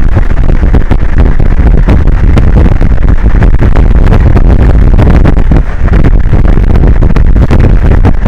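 Strong wind buffeting an outdoor microphone: a loud, continuous low rumble full of crackle, with no steady tone.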